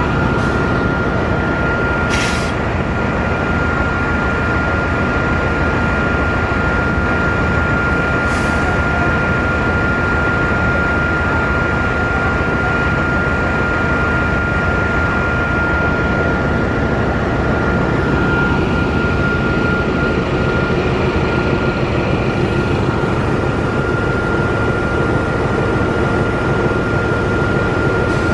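Sancaka passenger train, hauled by a CC 206 diesel-electric locomotive, running at about 110 km/h, heard from on board: a steady rumble of wheels on the rails with a constant thin high whine. There are brief hisses about two, eight and twenty-two seconds in.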